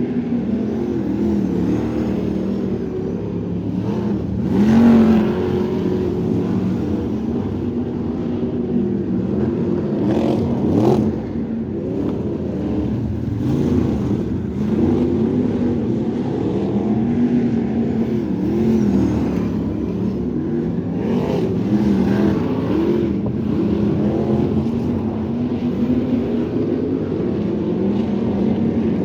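Crate sprint car engines running on track, the revs rising and falling as the throttle is worked, with a brief louder surge about five seconds in and again around eleven seconds.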